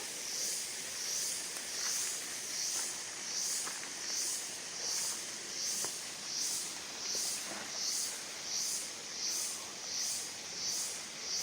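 A chorus of jungle insects making a high, pulsing buzz that swells and fades about three times every two seconds.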